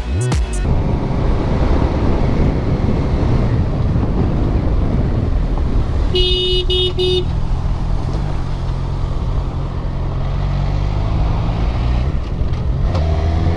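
A motor vehicle on the move: steady engine drone and wind and road rumble, with a horn honking three short times about six seconds in. Near the end the engine note rises as it speeds up.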